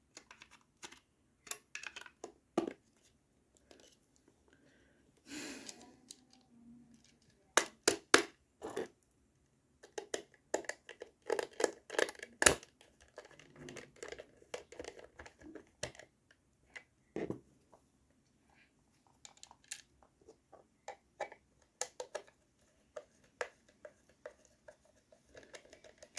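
Irregular small clicks, taps and short scrapes of hands reassembling a DT830D digital multimeter: its plastic case and parts are being handled and fitted back together. The clicks are densest in the middle stretch.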